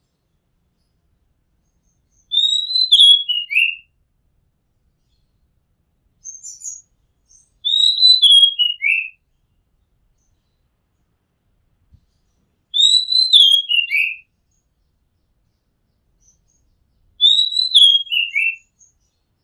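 Oriental magpie-robin singing: the same short whistled phrase, falling in pitch, repeated four times about five seconds apart, with a faint high chirp between the first two.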